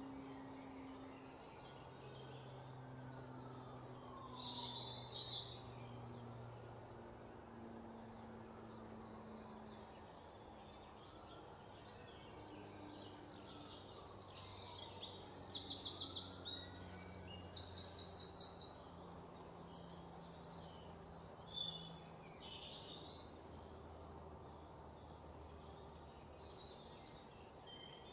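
Small birds chirping again and again. About halfway through come two louder bursts of rapid trilling. Underneath runs a faint low hum.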